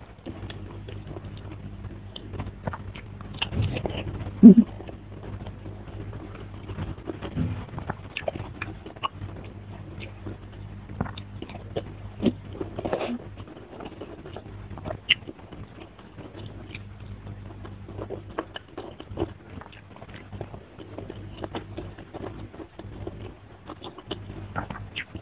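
Close-up chewing and wet mouth sounds of someone eating by hand: boiled chayote dipped in sambal, with rice, given scattered small clicks and crackles. One sharp, much louder click comes about four and a half seconds in. A low steady hum sits underneath.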